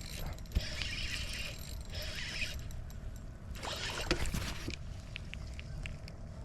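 Fishing reel being cranked in two bursts while fighting a hooked fish, a whirring hiss about half a second in and again near the four-second mark, over low wind rumble; a few faint ticks follow.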